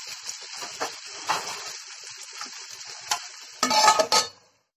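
Chopped onions and tomatoes sizzling in oil in a frying pan, with a few light clicks. Near the end comes a loud clatter as a metal lid is set on the pan, then the sound cuts out.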